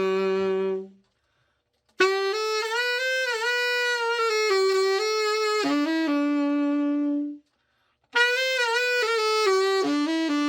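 Dave Guardala New York tenor saxophone, freshly overhauled, playing slow melodic phrases with vibrato as a play test. The phrases break off into short silences about one second in and again about seven and a half seconds in.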